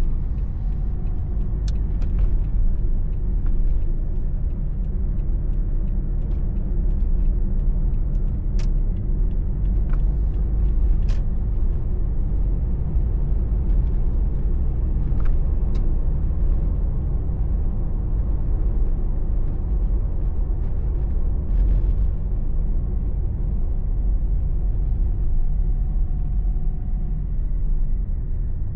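Steady low rumble of engine and tyre noise inside a car's cabin while driving, with a few sharp faint clicks.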